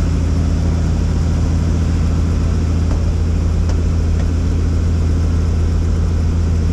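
Helicopter running: a steady low drone of engine and rotor.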